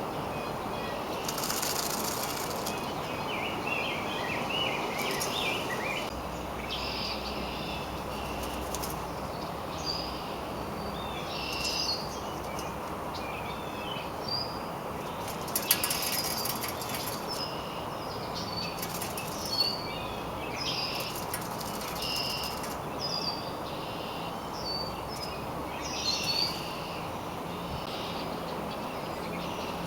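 Scattered short bird chirps and a few brief rustles, like wings flapping, over a steady background hiss. The sharpest rustle comes about sixteen seconds in.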